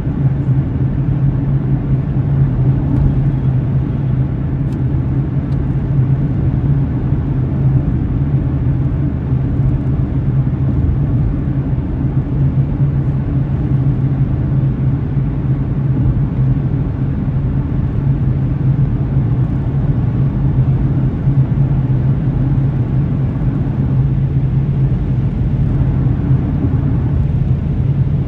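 Steady rumble of a car driving along, picked up by a dashcam inside the cabin: road and engine noise with a constant low hum.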